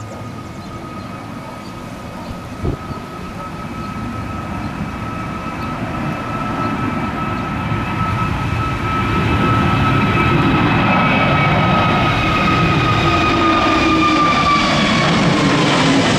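Airbus A321 jet engines at takeoff power, growing steadily louder as the airliner comes nearer, with a high steady whine over the engine noise that drops a little in pitch near the end as it passes.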